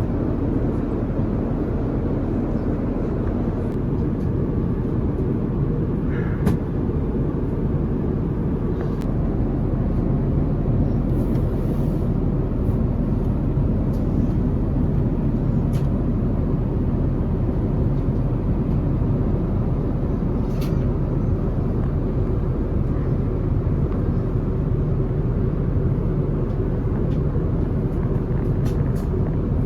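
Airbus A350 cabin noise in cruise: a steady, low rumble and rush of engines and airflow, with a few faint clicks.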